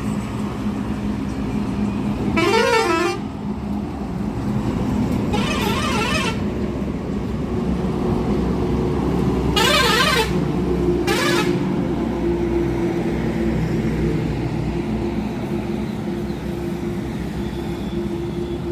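Tata truck's diesel engine running steadily on the road, with four blasts of a warbling multi-tone musical horn: two short ones in the first six seconds, then a longer one and a quick one about ten and eleven seconds in.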